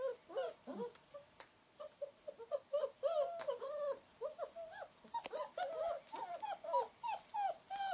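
Long-coat German Shepherd puppies whining and whimpering: a rapid, continuous string of short high cries, each arching up and then down in pitch, with a few sharp clicks among them.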